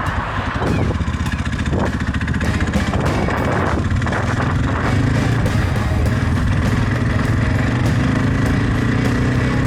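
Suzuki DR650's single-cylinder engine running under way, its pitch climbing gently in the second half, with music playing under it.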